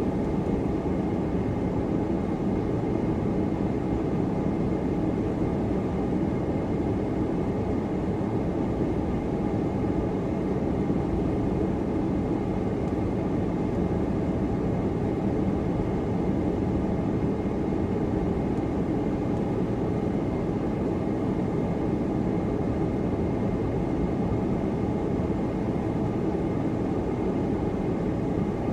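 Steady road and engine noise of a car driving, heard from inside the cabin: an even low rumble with a faint steady high whine over it.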